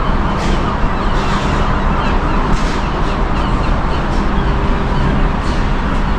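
Steady outdoor background noise: a constant rushing wash with a low machinery hum under it and soft gusts now and then.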